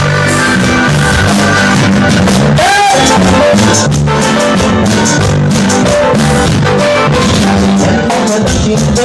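Latin tropical band music: drum kit, bass and guitar playing a steady dance groove, with a short sliding note about three seconds in.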